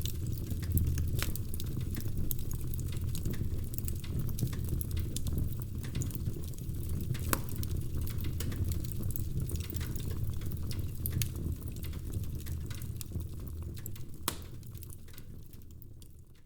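Wood fire burning in a fireplace: a steady low rumble with frequent sharp crackles and pops from the burning wood, fading out near the end.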